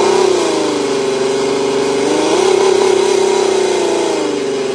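Car engine running at raised revs while canned spaghetti is poured into its open air intake. Its pitch rises briefly near the start and again for about a second around the middle, then settles.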